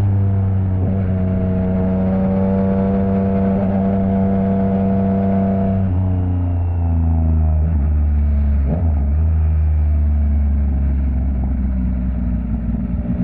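Yamaha MT-09 inline-three engine through an opened-up Akrapovic exhaust, heard from the rider's seat: it holds a steady pitch at cruising speed, drops in steps about six seconds in as the bike slows, and runs lower before starting to rise again near the end. A sharp click sounds once near the middle.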